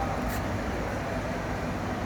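Steady machinery noise, a low even hum and hiss with no distinct rhythm, and a faint tick about a third of a second in.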